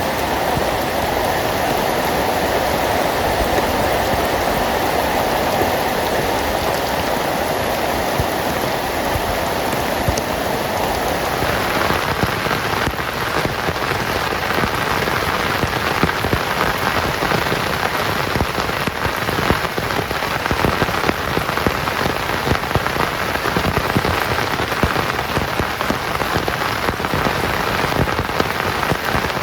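Heavy rain falling steadily on a tent. About a third of the way in the sound changes, becoming brighter with more separate drop hits.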